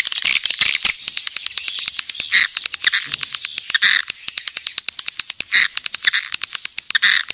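Swiftlets calling: a dense flock chorus of rapid, sharp clicks mixed with short twittering chirps, with no low end. This is a swiftlet lure call, the kind played to draw swiftlets to a nest house.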